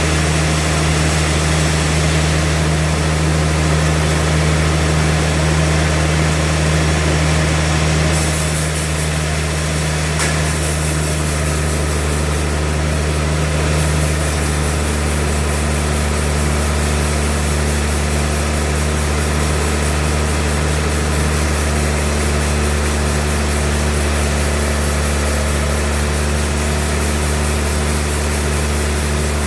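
Sawmill machinery running with a steady, loud low hum. The higher hiss changes character about eight seconds in.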